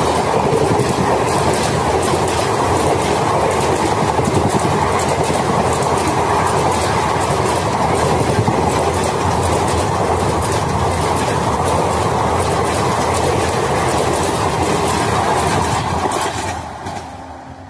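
A passenger train passing close by at speed, a loud steady rush with wheels clattering rapidly over the rail joints; the sound falls away quickly near the end.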